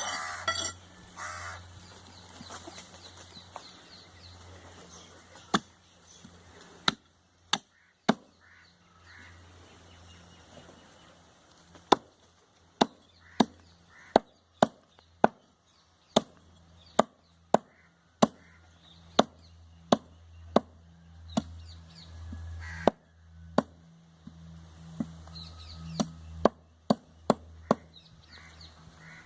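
Cleaver chopping goat meat on a wooden block in sharp single strokes, a few scattered blows at first, then a steady run of chops about one a second with a short pause, over a faint steady low hum.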